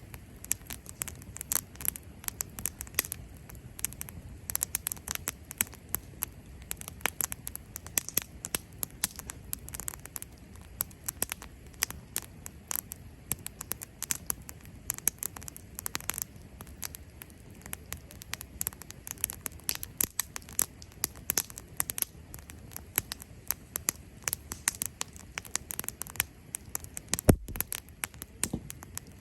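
Cherry-wood campfire crackling: many irregular sharp pops and snaps over a low, steady rumble, with one louder pop near the end.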